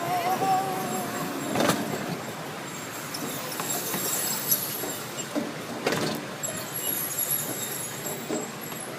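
Park miniature train running along its track: a steady rolling and rattling noise, with a couple of sharp clacks about two seconds and six seconds in.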